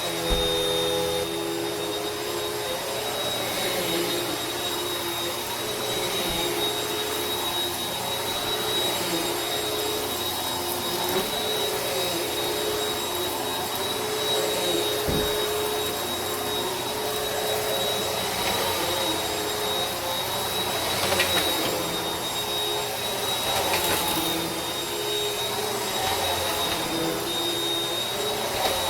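Vacuum cleaner running steadily, a continuous whooshing hum with a high motor whine, and a couple of brief knocks, one just after the start and one about halfway through.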